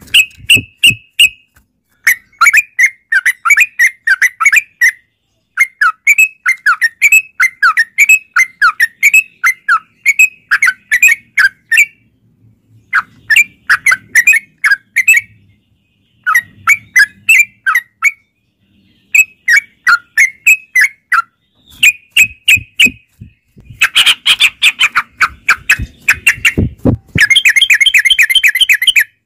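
Yellow-vented bulbuls (trucukan) singing, with quick bubbling chattering phrases of many short notes. They come in bouts of a few seconds with brief pauses, and a denser, faster run of song near the end.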